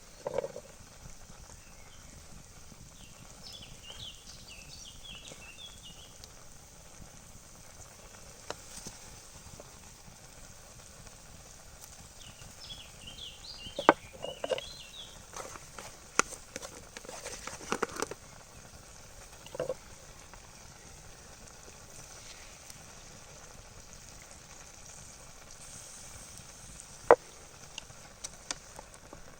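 Quiet outdoor ambience with a faint steady hiss; a bird chirps in two short bouts, and scattered sharp clicks and knocks come through, the loudest single knock near the end.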